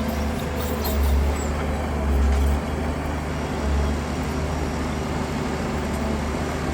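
Heavy diesel engine of earthmoving machinery running under load, a low rumble that swells three times in the first four seconds.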